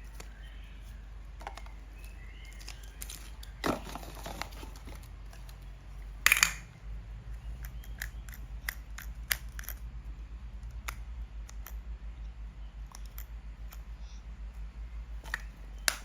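Toy packaging being handled: scattered small clicks and taps, with a short louder crinkling rustle about six seconds in, over a low steady hum.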